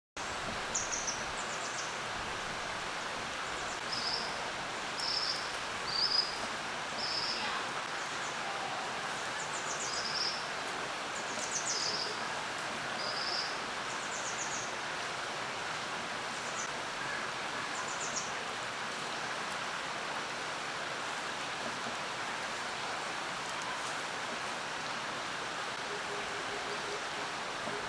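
Valley stream rushing steadily, with about a dozen short, high, sharp calls from a common kingfisher scattered through the first two-thirds.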